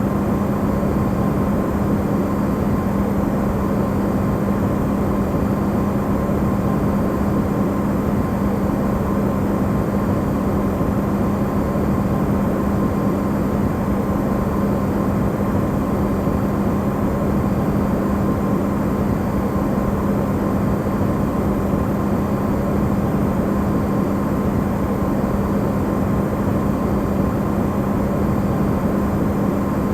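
Electrolux refrigerator running, recorded close up and amplified: a steady, unbroken mechanical hum with a low drone, used as white noise.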